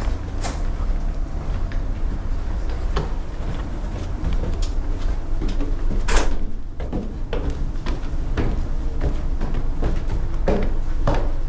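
Steady low rumble of a ship's engine with scattered knocks and clatter, the loudest knock about six seconds in.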